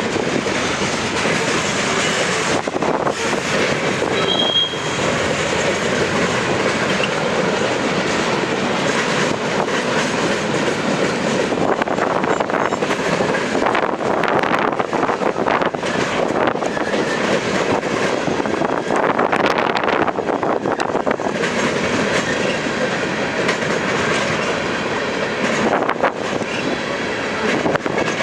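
Freight cars of a CSX manifest train rolling past, steel wheels clicking over the rail joints, with a brief high wheel squeal about four seconds in.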